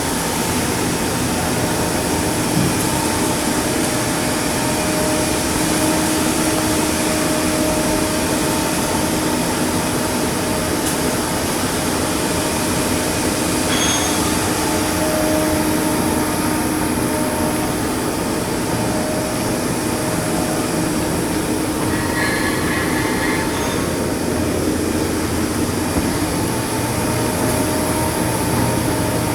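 Steady, loud mechanical noise of shipyard machinery with a constant low hum, briefly joined by a short high tone about halfway through and a warbling tone a little later.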